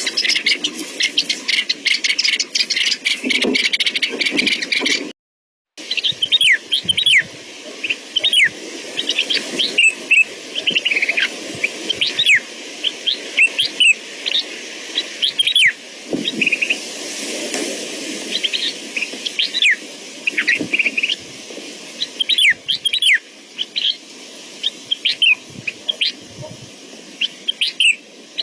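Small bird chirping: many short, sharply falling chirps at irregular intervals. It opens with about five seconds of dense, rapid chattering, broken by a moment of silence.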